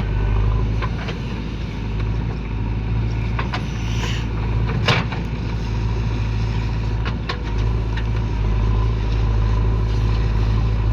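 Heavy diesel engine of loading machinery running steadily under load, with several sharp clanks scattered through, the loudest about halfway.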